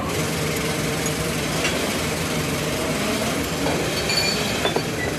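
Steady machinery noise with a low hum, broken by a few light clicks and knocks.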